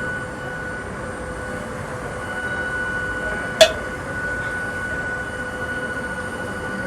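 Steady noise of a Hakone Tozan Railway 100-series electric train with a constant hum, and one sharp click about halfway through.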